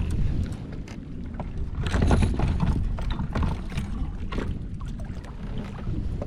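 Wind buffeting the microphone and water moving around a fishing kayak, with scattered small knocks, loudest about two seconds in.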